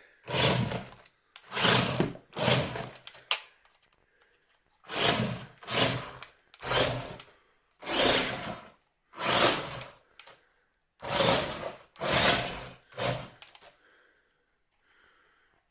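The brushed 370 electric motor of a 1/16-scale JJRC Q123 RC drift truck, run in about a dozen short throttle bursts, each under a second, with its tyres spinning and scrubbing on a grippy tabletop.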